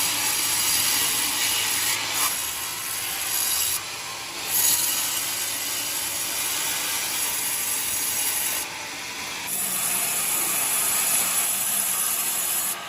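Sawmill blade cutting through coconut wood, a steady loud hissing rasp that eases briefly twice.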